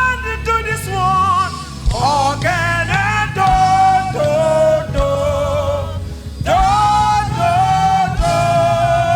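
Gospel praise and worship singing with live band accompaniment. Voices hold long, wavering notes over a steady bass line.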